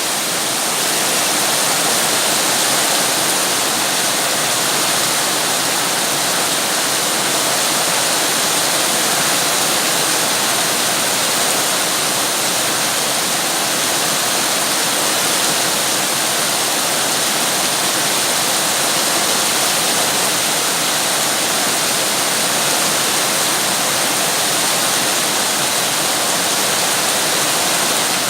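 Heavy rain falling steadily, a dense, even hiss with no single drops or other sounds standing out.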